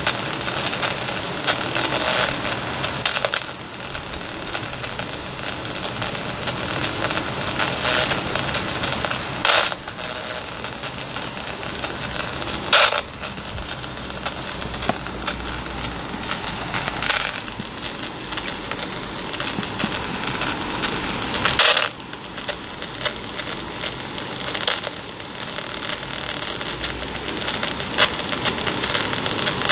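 Steady hiss of rain falling during a thunderstorm, with several sharp clicks or taps scattered through it.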